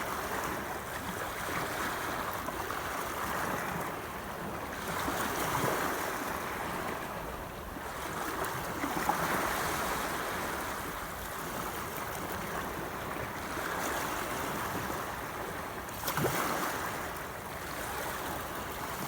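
Water rushing and splashing in uneven surges that swell and fade every few seconds, with sharper splashes about nine and sixteen seconds in.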